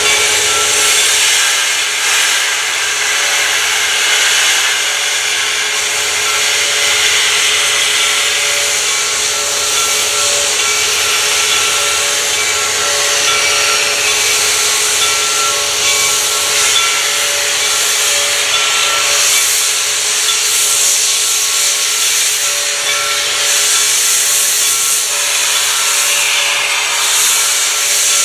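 Steady hiss of steam escaping from Reading & Northern 4-6-2 steam locomotive No. 425, with faint tones underneath.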